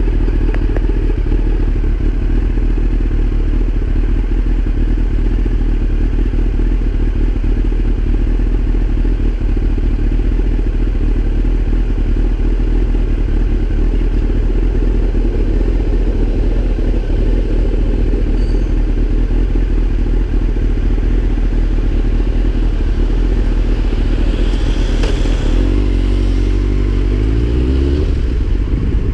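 Yamaha FZS1000's inline-four motorcycle engine idling steadily at a standstill, then rising in pitch near the end as it revs.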